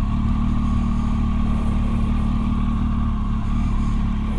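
Motorcycle engine running steadily at low revs, with no change in pitch.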